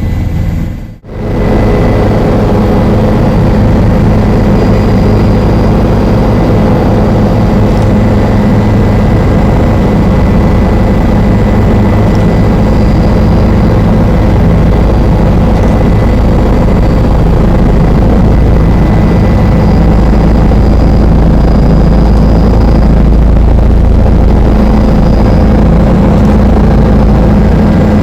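Helicopter turbine and rotor running steadily, heard loud from inside the cabin as a deep rumble with a steady whine on top. The sound drops out briefly about a second in, then carries on unchanged.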